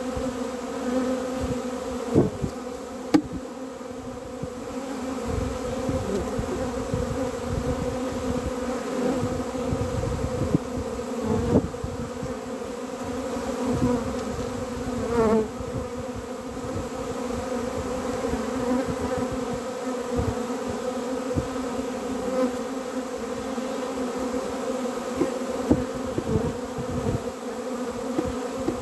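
Honeybees buzzing at a hive: a steady, dense hum, with irregular low bumps and a couple of sharp knocks about two and three seconds in.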